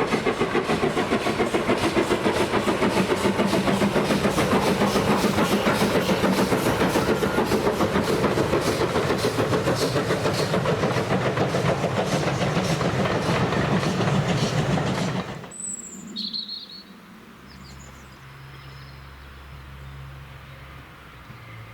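Steam-hauled train running past with a fast, even rhythmic beat. It cuts off suddenly about 15 seconds in, leaving a quiet low hum and a couple of brief high chirps.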